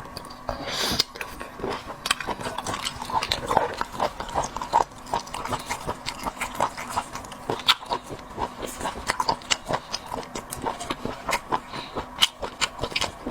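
Close-miked chewing of whelk meat with spicy sauce: a steady run of quick mouth clicks and lip smacks.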